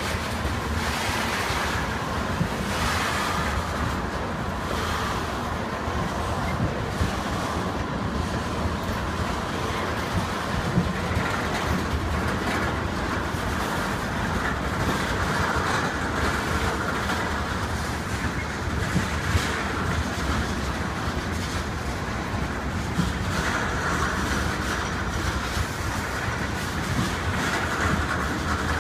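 A freight train of oil tank cars rolling past: the steady rumble of steel wheels on rail, with occasional sharp clicks.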